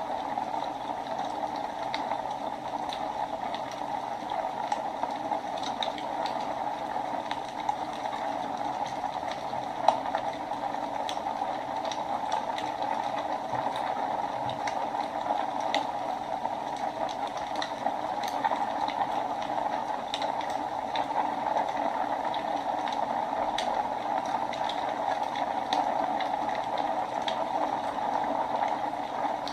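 Wood fire burning in a fireplace: a steady rushing hiss with scattered crackles and pops, one louder pop about ten seconds in.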